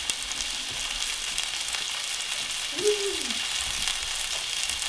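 Chicken frying in oil in a pan on a gas burner, sizzling steadily with fine crackles. A brief pitched sound stands out about three seconds in.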